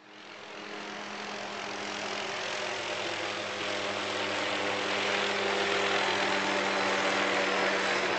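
Police helicopter overhead: engine whine and rotor noise, growing louder over the first few seconds and then holding steady.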